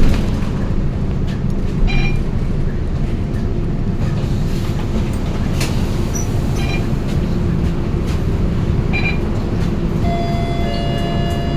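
Scania K230UB single-decker bus heard from on board while driving: a steady low engine and road drone, with short squeaks and rattles from the body a few times. About ten seconds in, a steady electronic tone begins.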